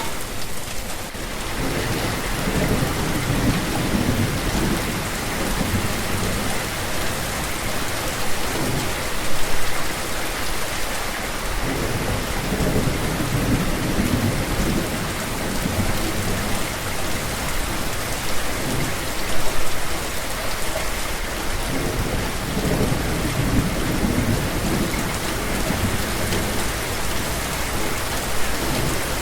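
Steady rain pouring down, with thunder rumbling low several times through it.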